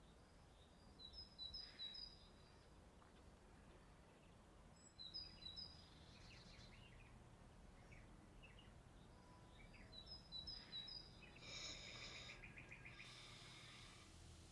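Faint bird chirps over a near-silent background: three short runs of quick, high chirps, then a brief rapid trill near the end.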